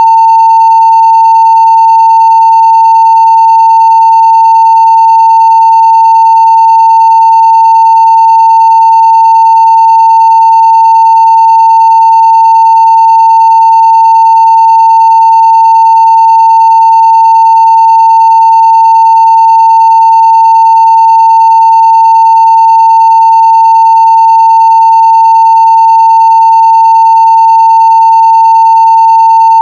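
Continuous 900 Hz sine-wave test tone at full scale (0 dB), one loud steady pitch that never changes or breaks.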